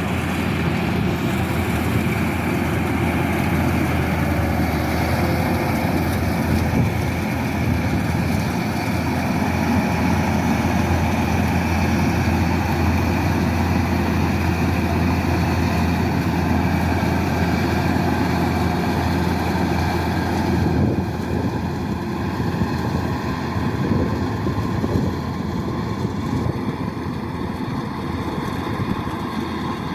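Kubota DC108X rice combine harvester running steadily: a continuous heavy engine and machinery hum. About two-thirds of the way through it grows slightly quieter and less even.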